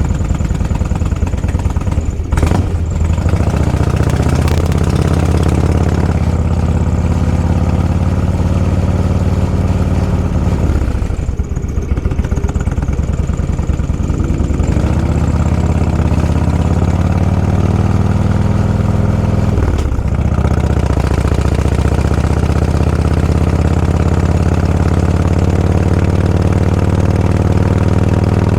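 Motorcycle engine running steadily under way. Three times the note briefly drops and then picks up again.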